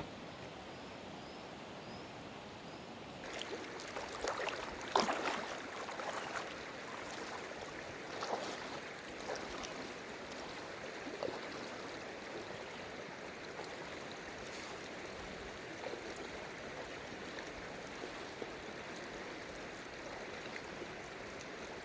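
Flowing stream water, a steady rushing that grows fuller about three seconds in, with uneven louder splashes for several seconds after.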